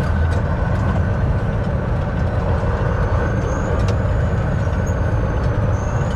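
Semi-truck's diesel engine heard from inside the cab, a steady low drone as the truck rolls slowly, with a faint high squeal in the second half and a couple of sharp clicks.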